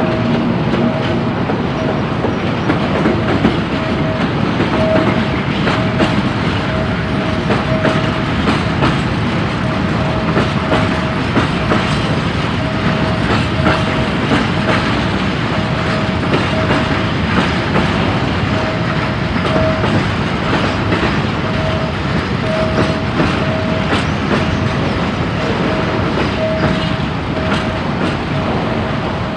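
Freight train rolling past a level crossing, its wagons' wheels rumbling and clattering over the rail joints. Over it the crossing's warning signal sounds one repeated tone, about once a second.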